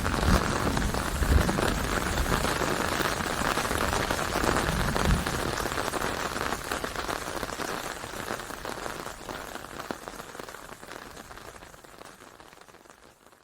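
Steady rain falling, an even hiss of drops with a brief low rumble about five seconds in; the rain fades out gradually over the second half.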